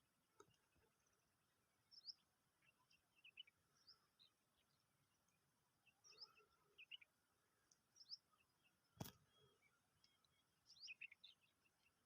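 Faint bird chirps: short, high calls scattered every second or so. One sharp click about nine seconds in.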